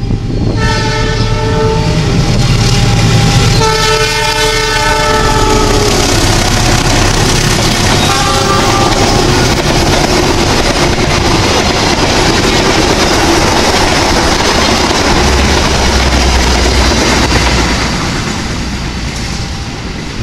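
Diesel-hauled passenger train passing straight through a station: the locomotive sounds its horn three times, the second blast dropping in pitch as it goes by and the third shorter, then the loud rumble and clatter of the coaches rolling past, fading near the end.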